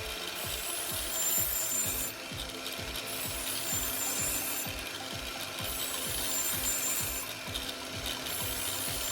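Angle grinder with a flap disc running while a kitchen knife edge is ground against it. The grinding hiss comes in passes of two to three seconds with short breaks, over a fast, regular low pulsing.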